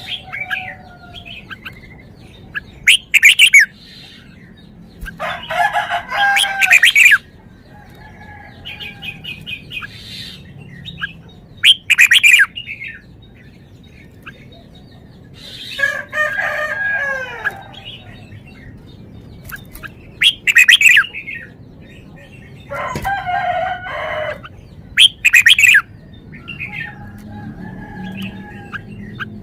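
Red-whiskered bulbul singing: short, loud phrases repeated every few seconds, with quieter chirps in between.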